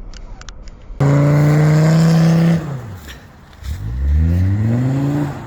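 A motor vehicle engine revving hard. It starts abruptly and holds high revs for about a second and a half, drops, then climbs in pitch again before easing off near the end. A few sharp clicks come just before it.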